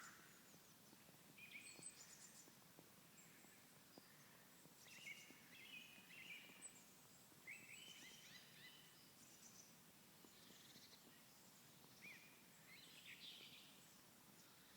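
Faint songbirds chirping and singing in short phrases, one every couple of seconds, over a soft steady outdoor background hiss.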